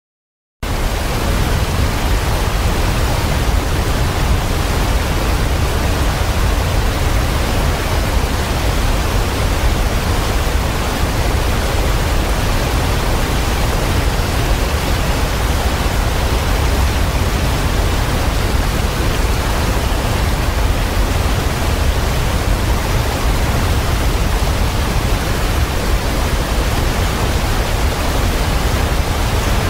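Waterfall pouring with a steady, loud rushing roar, heaviest in the low end; it cuts in suddenly after a brief silence about half a second in.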